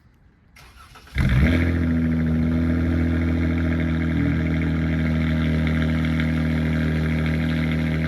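V6 engine with a Solo Performance aftermarket exhaust cold-starting. It catches about a second in with a brief flare, then settles into a steady fast idle.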